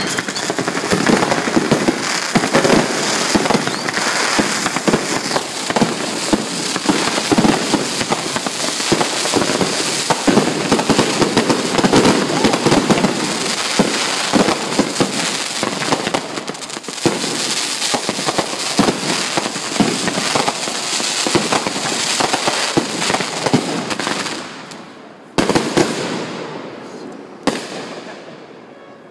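A 500-shot fireworks cake firing in a rapid, dense barrage of bangs and crackling bursts. About 24 seconds in the barrage thins out, leaving a last couple of single bangs that die away as the cake finishes.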